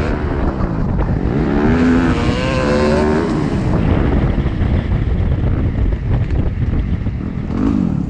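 Dirt bike engine revving up and down as it is ridden, its pitch rising and falling several times, with heavy wind buffeting on the microphone.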